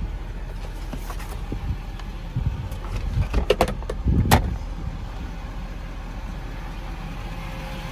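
Ford F550's 6.7-litre Power Stroke diesel idling steadily, with a run of clicks and knocks in the middle, the loudest just after four seconds in.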